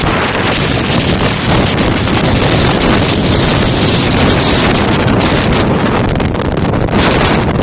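Strong wind buffeting the microphone: a loud, continuous rushing roar, brightest in its hiss about halfway through.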